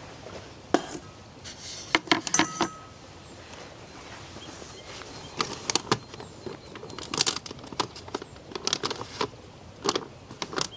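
Irregular sharp clinks and rattles of small hard objects being handled, one ringing briefly, over a steady hiss of rain.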